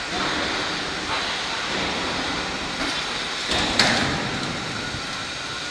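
Heavy transporter truck running with a steady mechanical noise and hiss, with a sharp burst of hissing about four seconds in.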